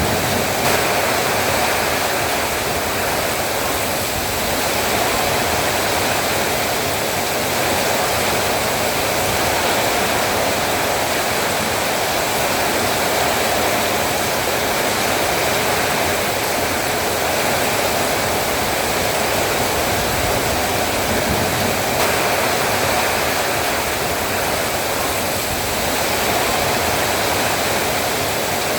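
Heavy rain falling steadily, a dense even hiss with a gusting wind rumble underneath.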